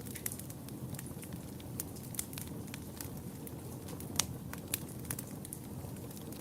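Wood fire burning in a fireplace: a steady low rumble of flames with irregular sharp crackles and pops, a few a second, one louder pop about four seconds in.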